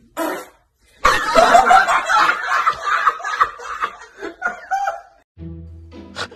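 People laughing hard for about four seconds. Music with a steady bass comes in near the end.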